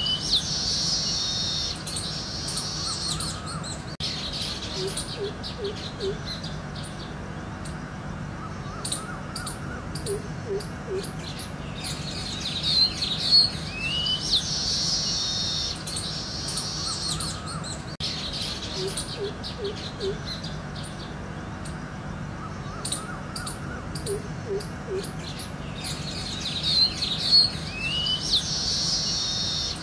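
Songbirds chirping and twittering in a looped soundtrack. The same burst of high chirps and a quick rising whistle comes back about every fourteen seconds, with short groups of three or four low notes in between, over a steady low hum.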